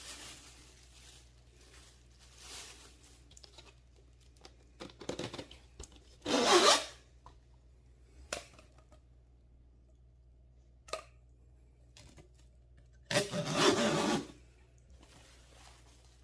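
Packaging being handled and torn open while parts are unpacked: two loud rustling, tearing bursts about six seconds in and again about thirteen seconds in, with a few short clicks and faint rubbing between.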